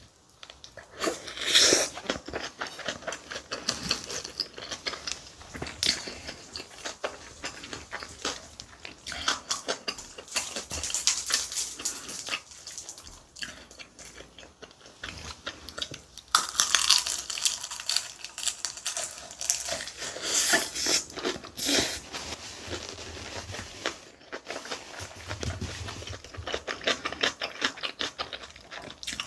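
Close-miked eating: chewing large mouthfuls of kimchi bibimbap, with many small mouth clicks and smacks.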